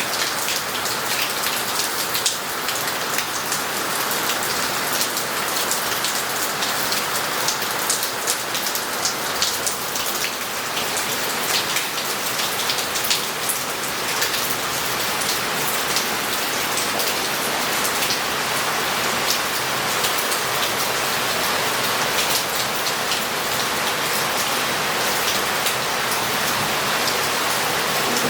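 Heavy rain falling on a city street and roof tiles: a steady hiss of rain with many sharp, separate drop strikes close by.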